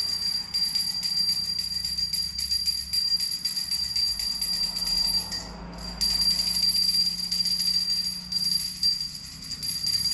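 Brass pooja hand bell rung rapidly and continuously, giving a steady high ring. The ringing stops briefly about halfway through, then resumes.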